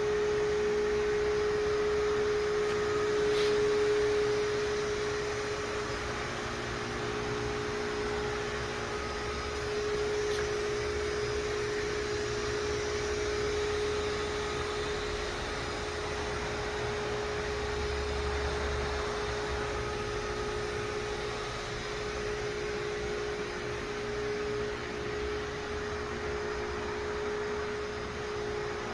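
Small electric motor, likely a power tool, running steadily with a constant high-pitched hum and no change in speed.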